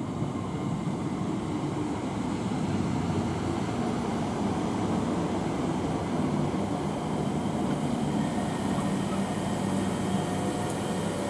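Class 321 electric multiple unit running slowly at the platform, a steady rumble and hum with faint tones from its traction equipment.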